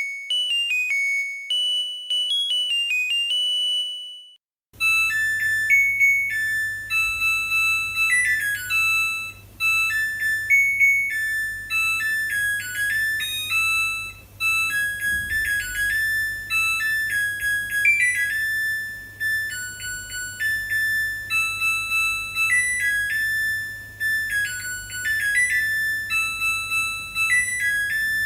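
Washing machine end-of-cycle melody: electronic beeping tunes signalling the wash has finished. A short clean tune ends about four and a half seconds in, and after a brief break a longer beeping melody plays over a steady low hum.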